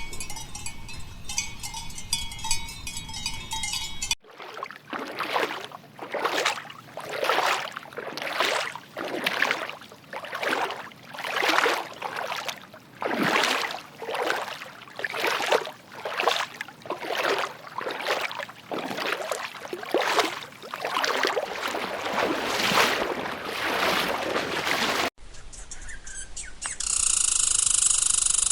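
An animal calling over and over, about one call a second, for some twenty seconds. Short clips of other animal sounds sit before and after it, split by sudden cuts.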